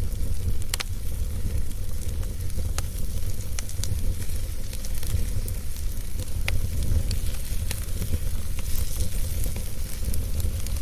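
Fire burning in a fireplace, crackling and popping irregularly over a steady low rumble, with a sharper pop about a second in.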